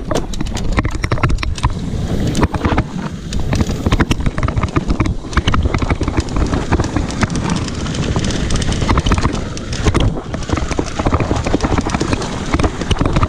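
Mountain bike riding over rough ground: tyres crunching on dirt and stones, with the bike rattling and clattering at many quick knocks, and wind buffeting the microphone.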